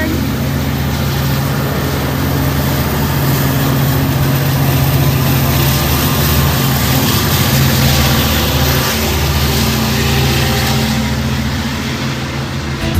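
Long Island Rail Road DE30AC diesel-electric locomotive, its diesel engine running with a steady low drone that holds for the whole stretch and eases off slightly near the end.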